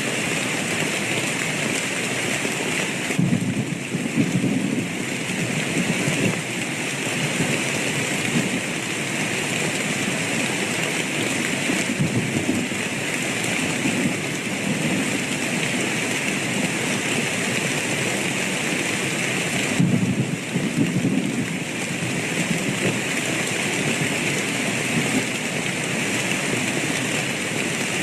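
Steady rain falling, with low rumbles of thunder rolling under it, the strongest a few seconds in and again about two-thirds of the way through.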